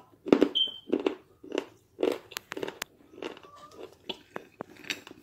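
Close-miked chewing of crunchy clay: dry crunches about twice a second, with a few sharp snaps among them.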